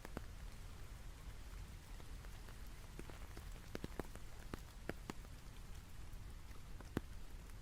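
Rain falling, a faint steady hiss with scattered individual drops landing, more of them in the middle and one louder drop near the end. Under it runs a steady low rumble.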